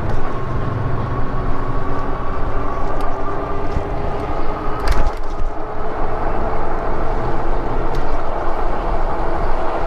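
Steady wind rush and road noise while riding an electric bike, with a faint whine that rises slightly in pitch and a sharp click about five seconds in.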